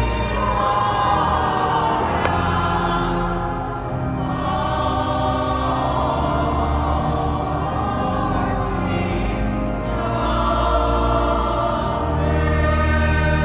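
Choir singing a sacred piece in sustained chords, with held low notes underneath and the long reverberation of a large cathedral.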